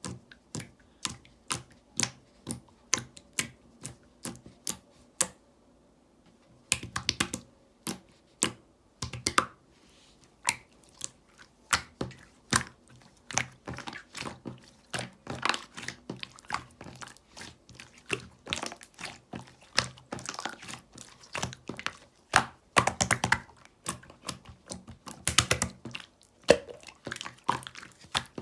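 Slime being pressed and squeezed by hand, giving sharp clicks and pops from trapped air: about two a second at first, a short pause, then faster runs with a few dense crackling bursts.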